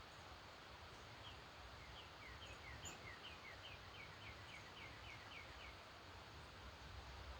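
A songbird singing faintly: one rapid phrase of short downslurred notes that starts about a second in and runs for some four seconds, over a steady background hiss. A few faint high chips sound from a second bird.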